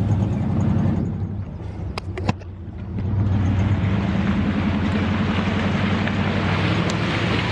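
Old Jeep truck's engine running under load off-road. It eases off about two seconds in, with two sharp knocks, then pulls steadily again.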